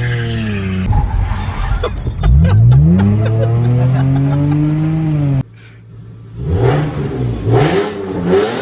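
Lexus GS300's straight-six engine revving through an MBRP Mustang cat-back exhaust with a custom mid pipe, heard as short clips joined together. The pitch climbs and falls with each rev. The sound breaks off suddenly about five seconds in, then a few more quicker revs follow.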